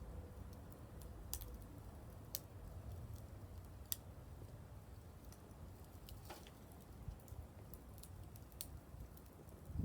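Wood fire crackling: sparse, irregular sharp snaps and pops over a faint low rumble.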